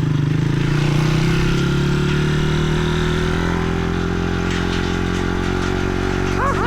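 Small-displacement Crossfire dirt bike engine running at a steady cruising speed, holding an even pitch. A run of short, repeated chirps starts just at the end.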